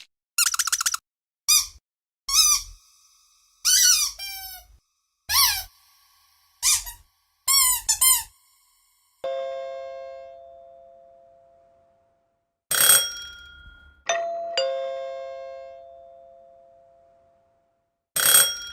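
A run of short, quick chirps, then a doorbell chime: a single ringing ding that slowly fades, a two-note ding-dong, and another chime strike near the end.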